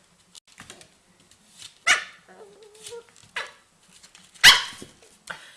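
A dog barking twice in sharp single barks, the second louder, with a short whine between them.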